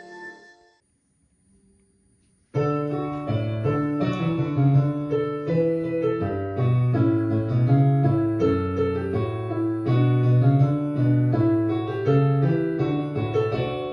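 Keyboard music in a piano sound, with chords over a moving bass line. It starts suddenly about two and a half seconds in, after a short silence that follows the end of the previous music.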